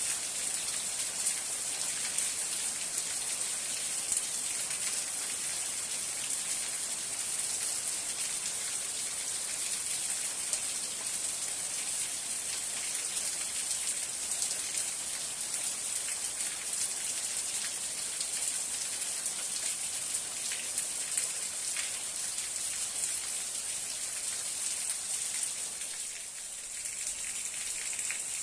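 Steady rain falling, a dense even hiss of drops with scattered individual drop ticks; it eases slightly for a moment near the end.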